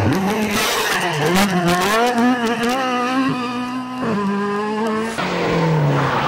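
Rally car engine running hard at high revs, its pitch rising and falling with the throttle and stepping down abruptly twice in the second half.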